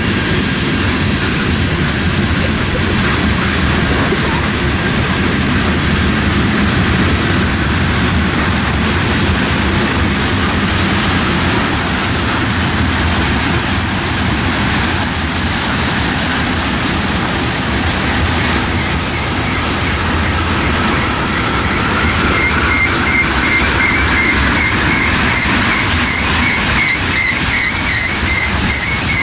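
BNSF freight train rolling past close by, a steady rumble of wheels on rail with clickety-clack over the joints. In the last third, high pulsing squeals come in on top.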